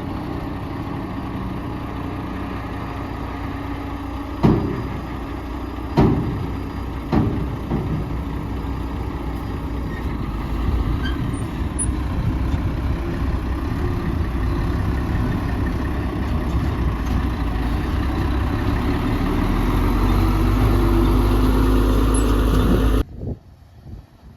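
Heavy diesel earthmoving machinery running steadily, with three sharp knocks about a second apart early on. The engine sound grows louder over the second half, then cuts off abruptly near the end, leaving only a faint hiss.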